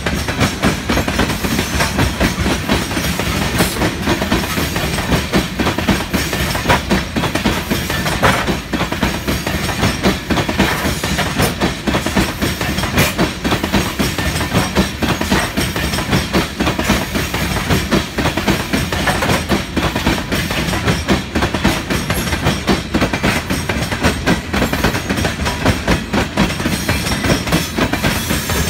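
Open-top hopper cars of a Union Pacific gravel train rolling past: steady rumble and rattle of steel wheels on the rails, with a continuous clickety-clack over the rail joints.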